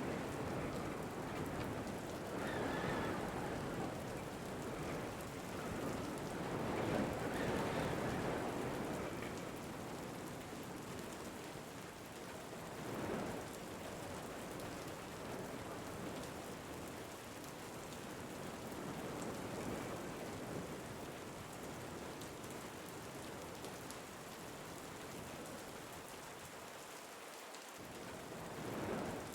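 Steady rain falling, its hiss rising and falling in a few swells, the loudest about seven seconds in.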